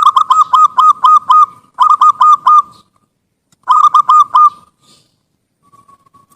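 Zebra dove (perkutut) cooing in three bursts of rapid staccato notes. The first burst is the longest, and two shorter ones follow about 2 and 4 seconds in.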